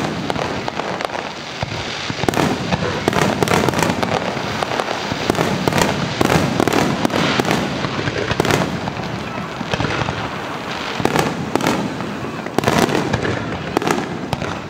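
Aerial firework shells bursting in quick succession: a dense run of bangs and crackles all through, with no pause.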